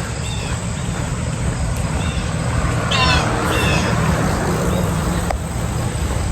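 Bird calls outdoors: a few short, downward-bending calls, the loudest pair about three seconds in, over a steady low rumble.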